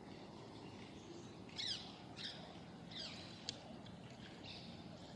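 Small birds chirping: a series of short, high, downward-sweeping calls, several in a row, over a steady background hiss.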